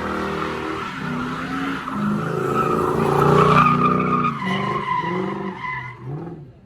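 A car engine revving with tyres squealing, the sound dying away near the end.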